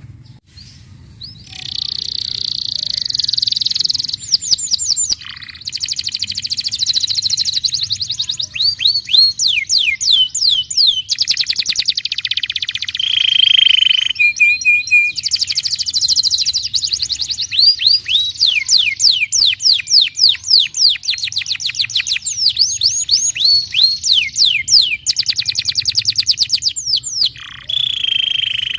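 Domestic canary singing a long, continuous song of fast trills, each a rapid run of repeated downward-sweeping notes, with a few steady held whistles between rolls. The song starts about a second and a half in and breaks off briefly a few times.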